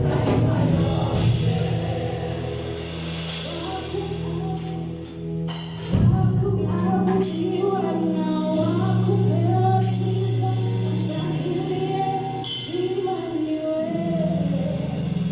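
Gospel worship song rehearsal: voices singing together over held bass notes and a drum kit with cymbals, a fresh loud phrase coming in about six seconds in.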